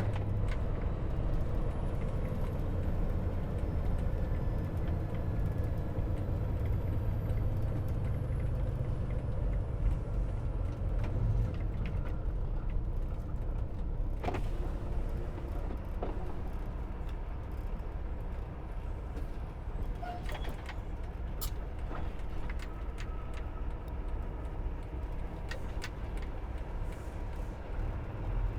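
Semi truck being driven, heard from inside the cab: a steady low engine drone and road noise, easing a little about eleven seconds in. A few sharp clicks and knocks come in the second half.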